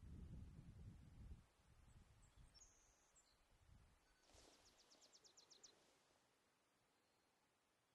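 Faint songbird calling: a few thin high whistles, then a quick trill of about ten notes near the middle. A low rumble at the start dies away about a second and a half in.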